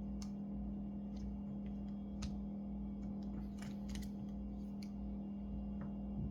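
Scattered small clicks and ticks of tools and plastic or metal laptop parts being handled during a laptop repair, irregularly spaced, over a steady low hum.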